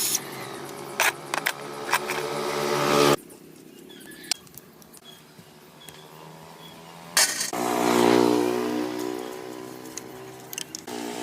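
A running engine at a steady pitch, with a few sharp clicks. It cuts off abruptly about three seconds in and comes back just as suddenly about seven seconds in.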